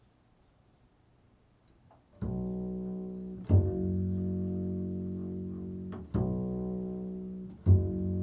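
Near-silence for about two seconds, then improvised low, sustained instrumental notes. A new note or chord starts four times, the loudest with a sharp attack, each ringing and slowly fading before the next.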